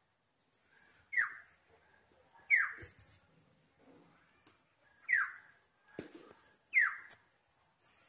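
An oriole calling: four short, loud calls that each slide downward in pitch, spaced one to two and a half seconds apart. There is a soft knock just before the last call.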